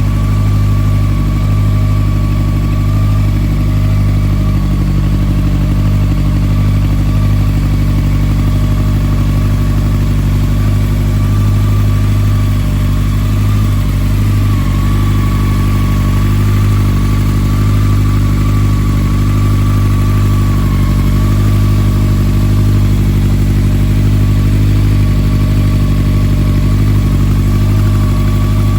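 Honda CB1100EX air-cooled inline-four idling steadily through a Moriwaki four-outlet exhaust, a low, even note with no revving.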